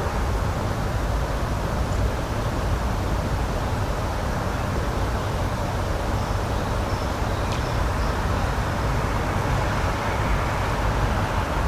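Steady outdoor rushing noise, strongest in the low range, with a few faint high chirps around the middle.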